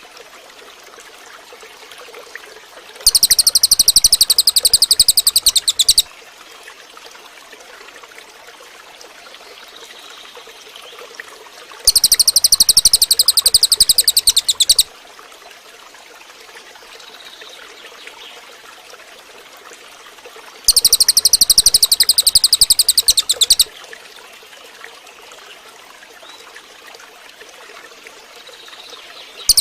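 Cililin bird singing: a loud, very fast, high-pitched rattling trill lasting about three seconds, given three times about nine seconds apart, with another starting right at the end.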